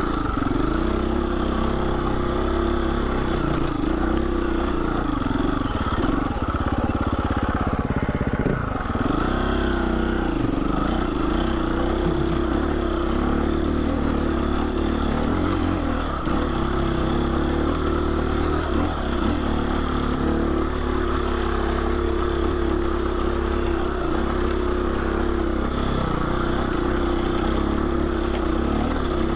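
2020 Husqvarna 350 FE's single-cylinder four-stroke engine running under load up a rocky trail, its pitch rising and falling again and again as the throttle is worked.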